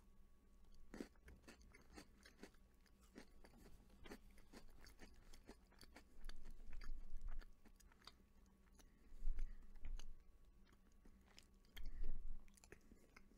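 Close-miked chewing of a crunchy chocolate-coated peanut butter sandwich cookie: a steady run of small crisp crunches, with a few louder, muffled stretches partway through.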